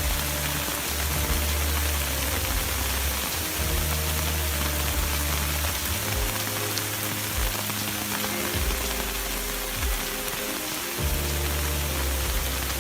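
Heavy rain falling steadily, with background music of low sustained notes underneath.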